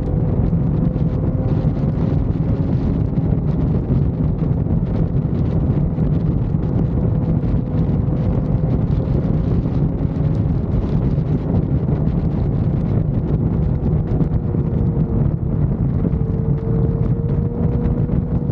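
Motorcycle at highway speed: heavy wind buffeting on the microphone over a steady engine drone that shifts slightly in pitch.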